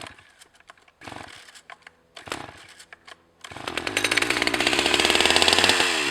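A few light knocks, then about three and a half seconds in a Stihl 011 AV two-stroke chainsaw is opened up to high revs and runs loud and steady, its pitch dipping briefly near the end.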